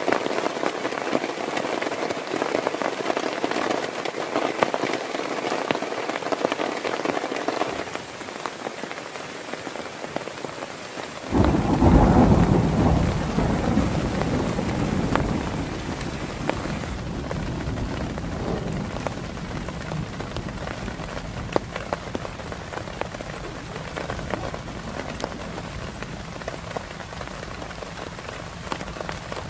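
Heavy rain falling steadily, dotted with the ticks of single drops. About a third of the way in, a loud rumble of thunder breaks in suddenly and dies away over four or five seconds.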